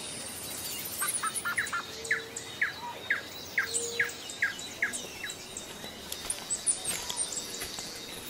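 Birds calling: a run of short, quick falling notes about two a second, starting about a second in and stopping after about five seconds, with fainter high chirps scattered through.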